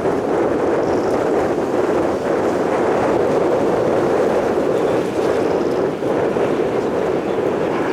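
Steady roar of MB-339 PAN jet trainers' turbojet engines as the formation flies over, a continuous rushing noise with no clear pitch.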